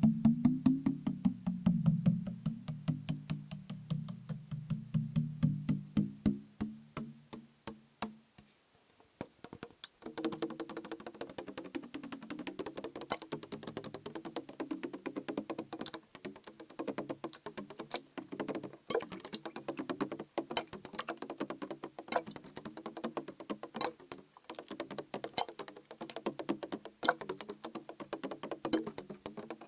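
Rapid tapping on a plastic bottle filled with liquid, each tap with a short pitched ring. The tapping fades out about eight seconds in, stops briefly, then starts again around ten seconds in at a higher pitch.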